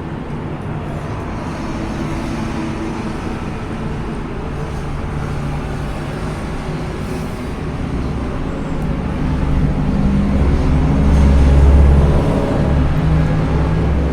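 Steady low rumble of a motor vehicle running, growing louder about ten seconds in.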